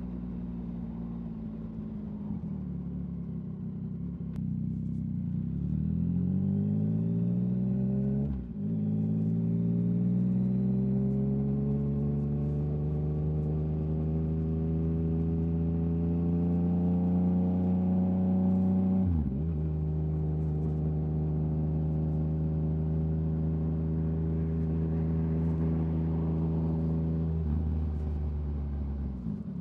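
Yamaha MT-09 three-cylinder engine through an Akrapovič exhaust, accelerating. It rises in pitch, with two brief quick-shifter upshift cuts about 8 and 19 seconds in. It then holds a steady cruise and drops off near the end as the throttle closes.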